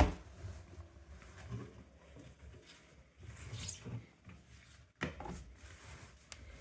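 Handling at a front-loading washing machine's door seal and wet laundry after the wash: faint rubbing and rustling, with a sharp knock at the start and another about five seconds in.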